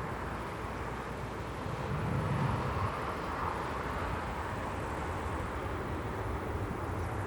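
Steady rumble of distant engines, swelling slightly about two seconds in.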